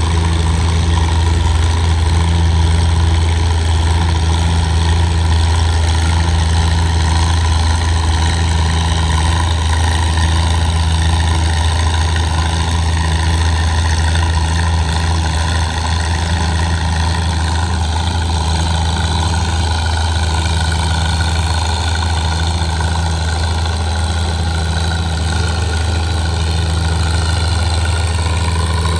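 Antique tractor engine running steadily with a deep, even hum.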